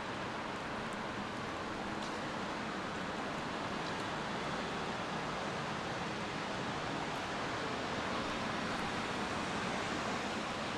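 Steady rain falling on a city street, an even hiss with a few faint drop ticks.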